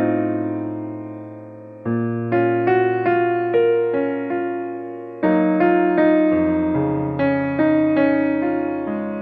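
Background music: a slow, gentle electric piano playing sustained chords and single notes, each struck and left to fade.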